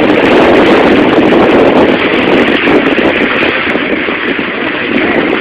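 Fishing boat under way: a loud, steady rush of wind on the microphone and water noise, with the boat's motor running underneath.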